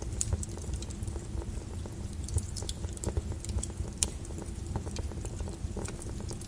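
Lava crackling and popping: irregular sharp cracks and ticks over a steady low rumble.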